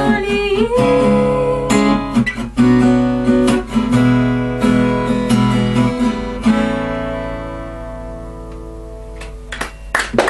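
Acoustic guitar strumming the closing chords of a song, with the sung last word at the start; about two-thirds of the way in a final chord is left to ring and fades away. Applause breaks out right at the end.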